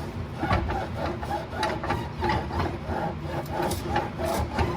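Rapid, repeated squeaking with light knocks, about four or five a second, from car parts being worked during suspension fitting; it is rhythmic enough to be likened to somebody "getting it on".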